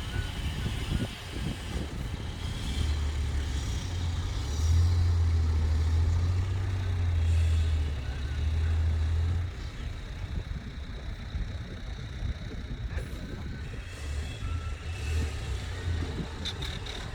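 Dump truck's diesel engine running with a heavy low rumble that grows louder for several seconds, from about 3 s in, then settles back.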